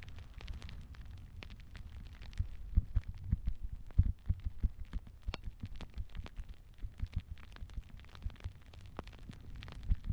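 Fairly quiet low rumble broken by irregular soft thumps and a few sharp clicks: a powder run in a blizzard heard through a GoPro MAX's microphones, wind buffeting the camera and snow moving under the rider.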